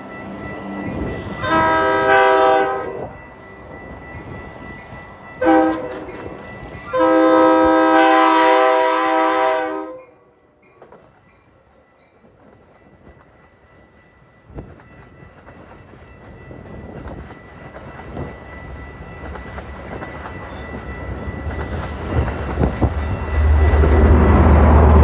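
Metra commuter train's locomotive horn sounds three blasts, long, short, then long. The train then approaches with a rising rumble of engine and wheels, loudest near the end as it passes close by.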